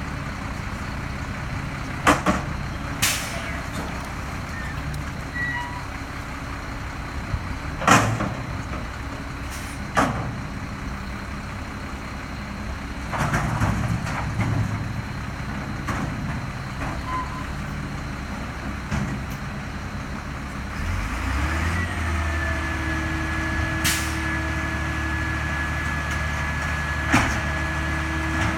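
Garbage truck running, with sharp bangs and clanks every few seconds. About two-thirds of the way through, its drone grows louder and a steady high whine sets in and holds.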